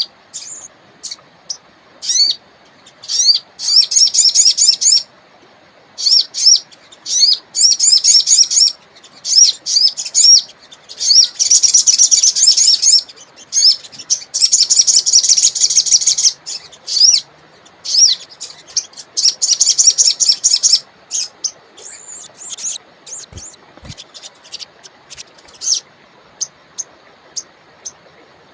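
A wild sogon songbird singing: loud, high-pitched phrases of rapidly repeated sweeping notes, each a second or two long, broken by short pauses and single sharp chips, over a faint steady river rush.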